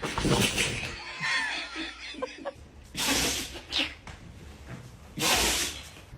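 A dog sneezing three times, short sharp sneezes about two to three seconds apart, with someone laughing in between.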